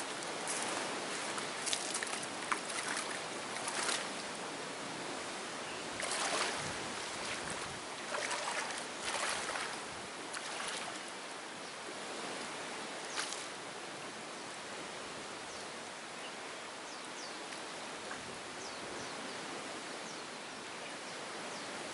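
Steady wash of water, with scattered short sharp knocks and splashes through the first dozen seconds before it settles into an even rush.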